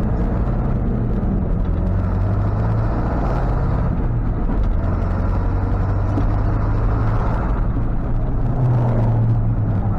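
Ford F-550 tow truck driving at low speed, its engine and road noise heard from inside the cab as a steady low hum that grows a little stronger near the end.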